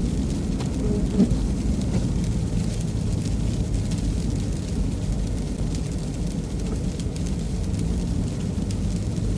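Steady low rumble of a truck driving on a snowy, icy road, heard from inside the cab.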